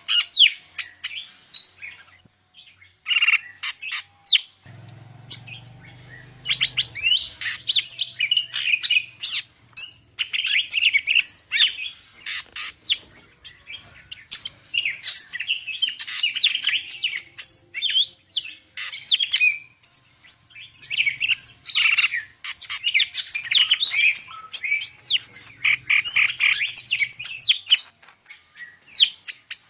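Green leafbird (cucak ijo) singing a long, rapid, varied song of chirps, whistles and trills in quick succession, with only brief pauses: a full-isian song of the kind used as masteran to train other cucak ijo.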